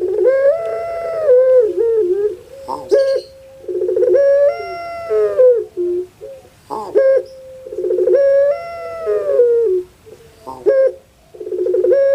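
Puter pelung dove (Streptopelia risoria) giving its long crowing coo: a short stuttering note, then a drawn-out note that rises and falls. The call repeats about every four seconds, three times and starting a fourth.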